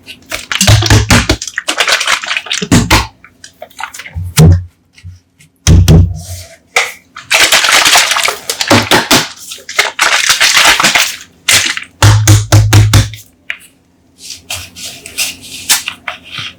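Coca-Cola soda bottles handled, opened and poured: quick crackling clicks and a few dull knocks, with two long fizzing hisses of carbonated soda about seven and ten seconds in.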